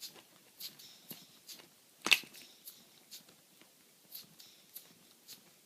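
Lego pneumatic two-cylinder engine running, its valves venting air in short hissy puffs about twice a second, with one sharper, louder click about two seconds in.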